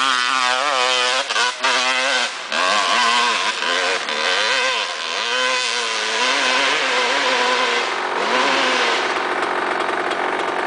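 Honda CR250 two-stroke dirt bike engine revving hard, its pitch rising and falling about twice a second as the throttle is worked on a hill climb, with a few brief cuts early on. Near the end it settles to a steadier, duller note.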